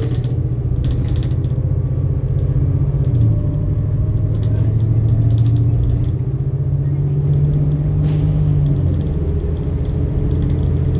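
Cummins-Westport ISL-G natural-gas engine and Allison B500R automatic transmission of a New Flyer XN60 articulated bus under way. The engine drone drops in pitch about three seconds in, climbs steadily, then drops again near nine seconds in as the transmission shifts up. A short hiss comes about eight seconds in.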